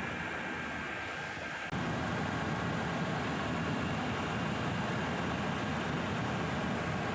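Steady helicopter cabin noise, the engine and rotor sound heard from inside, stepping up suddenly to a louder level about two seconds in.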